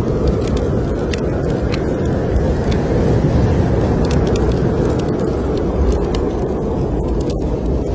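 Steady low rush of blizzard wind, with a wood fire in a fireplace crackling and popping in sharp, irregular snaps over it.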